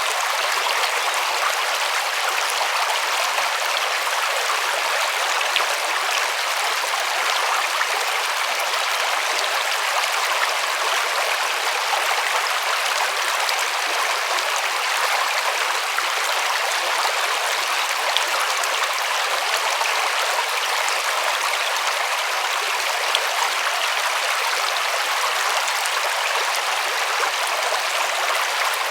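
River water flowing and splashing over stones: a steady, even rushing with fine crackling detail and no change in level.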